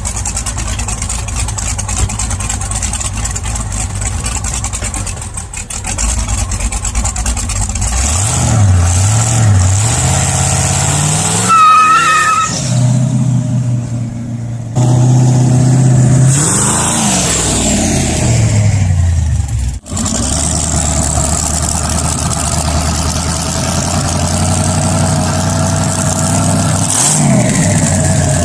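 Twin-turbo LS V8 engine revving up and dropping back several times across a string of short clips, with a brief high chirp about twelve seconds in.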